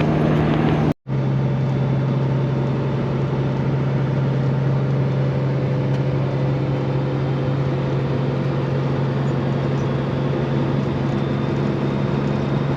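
Straight-piped Peterbilt 389 diesel semi truck running steadily down the road as a continuous low drone. About a second in the sound drops out for an instant, and after that the drone runs slightly lower in pitch.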